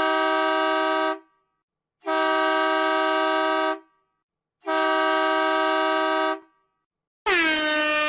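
Long horn blasts, each holding a steady pitch, repeated about every two and a half seconds with short silences between. About seven seconds in, a different horn starts: its pitch falls sharply at first, then holds.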